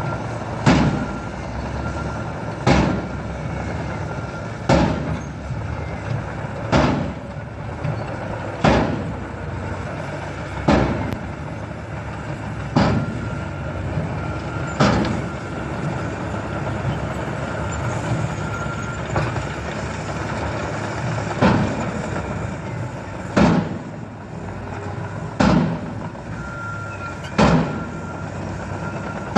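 A truck running steadily with a loud bang repeating about every two seconds, a dozen or so strikes in a regular rhythm.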